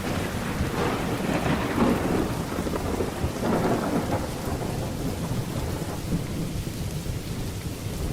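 Thunderstorm: steady heavy rain with low rolling thunder rumbling underneath, swelling louder around two and four seconds in.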